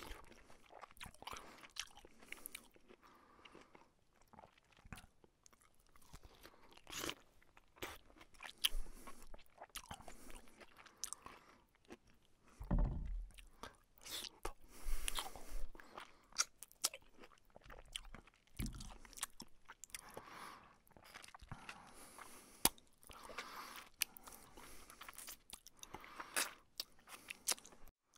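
Close-up chewing and crunching of fried fish and rice, eaten by hand: irregular crisp crunches and bites as the fried hilsa, small bones included, is chewed. A few dull low thumps come around the middle.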